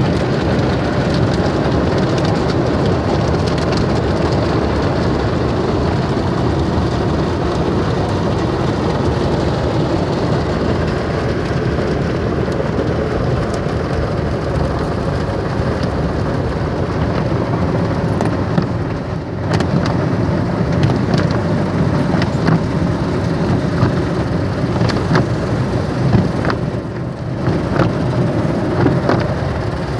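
Car wash water spray and cloth brushes hitting a car's body in a conveyor mini tunnel wash, a loud steady rain-like rush with scattered sharp slaps.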